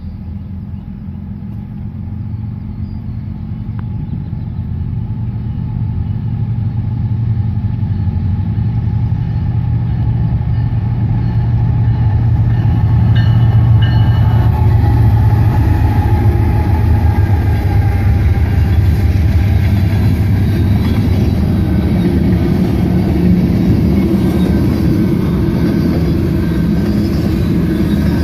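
Two Norfolk Southern GE ES44AC diesel-electric locomotives approaching and passing, their deep engine drone growing steadily louder, then tank cars rolling by with a steady rumble and hiss of wheels on rail.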